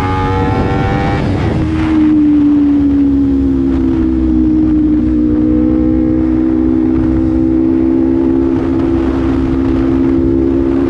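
Honda CBR250RR motorcycle engine running through a Proliner slip-on exhaust while riding. The note is high at first, drops sharply about a second and a half in, and then holds a steady, lower pitch.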